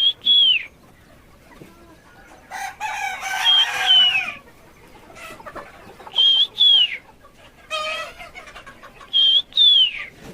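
Sonali chickens calling: a high two-part call repeated four times, about every three seconds, its second part falling in pitch. Harsher, lower calls come between them.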